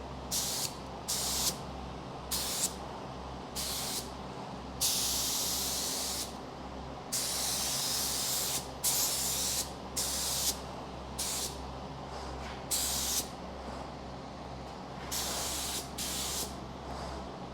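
Paint spray gun spraying two-part epoxy primer: a hiss of air and atomised paint in a dozen or so trigger pulls, most about half a second long and two held for over a second. A steady low hum runs underneath.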